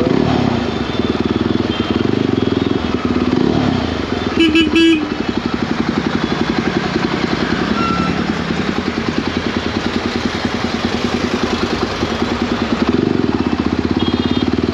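Jawa 42 motorcycle's single-cylinder engine running steadily at road speed. About four and a half seconds in, a vehicle horn sounds in two short beeps.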